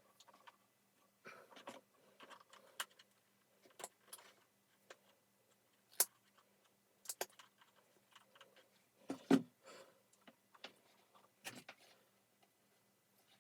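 Vacuum cleaner parts being handled during disassembly: scattered clicks, light knocks and rattles of plastic and small metal pieces at irregular intervals, with a heavier knock about nine seconds in.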